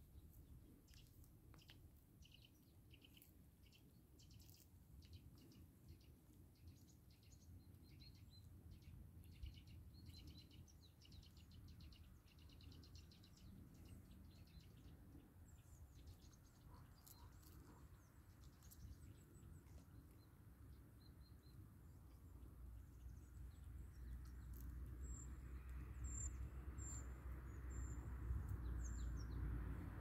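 Faint outdoor ambience with many short, high bird chirps. A low rumble grows steadily louder over the last several seconds.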